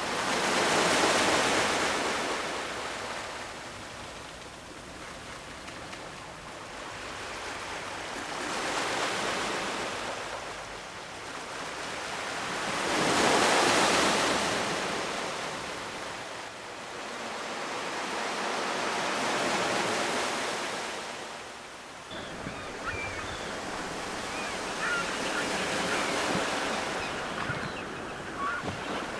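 Ocean waves washing onto the shore, each surge swelling and receding in slow rhythm, about five times over half a minute.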